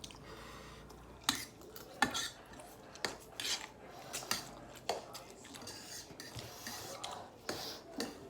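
Cutlery clinking and scraping against bowls as noodles are eaten, with a few sharp clicks at irregular intervals.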